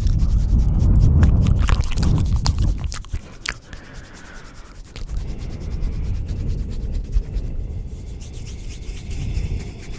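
Close-miked rubbing and scratching, layered with scattered small clicks; heavy and rumbling for the first three seconds, then softer.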